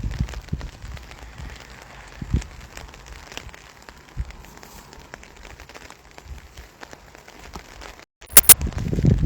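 Rain falling, with scattered drops ticking close by. About eight seconds in, the sound drops out for an instant, then a short loud crackle and rumbling wind noise on the microphone take over.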